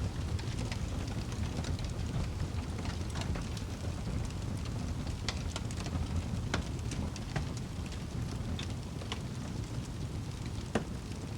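Wood fire in a fireplace crackling: a steady low roar with irregular sharp pops and snaps, one louder pop near the end.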